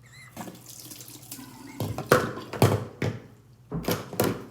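Water at a bathroom sink, splashing in several uneven bursts over a faint running-water hiss.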